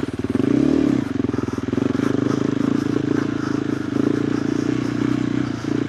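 KTM 390 Adventure R's single-cylinder engine running through a Norifumi Whoops slip-on exhaust, riding up a rocky trail climb. The revs rise and fall briefly a little under a second in, then hold steady.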